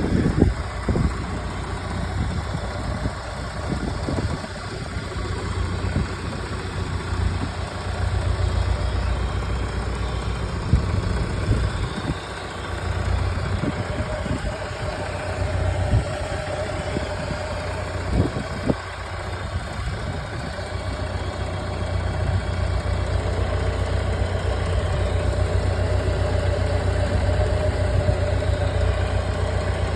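Fordson Power Major tractor engine running steadily at a low, even pace, with a few sharp knocks along the way and a steady higher whine joining about halfway through.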